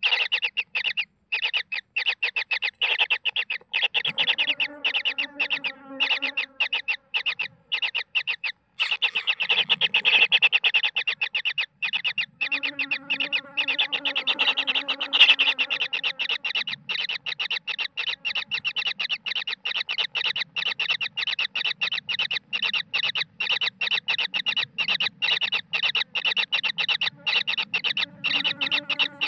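Kingfisher nestlings calling in a continuous run of rapid, evenly repeated short notes, many a second, starting abruptly.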